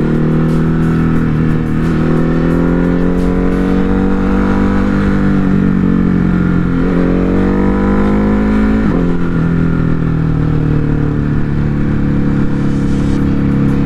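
Ducati Hypermotard 950 RVE's L-twin engine pulling under way. Its pitch climbs and drops sharply twice, about seven and nine seconds in, at upshifts, then holds steady over wind rush.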